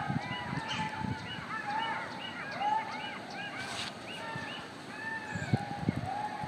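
A large flock of birds calling in a dense, continuous chorus of many short overlapping honk-like calls, with a few soft low thuds near the end.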